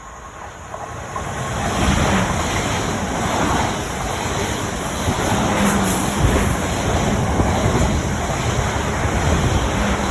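Train passing through the station: a steady rushing rumble that builds over the first two seconds and then holds.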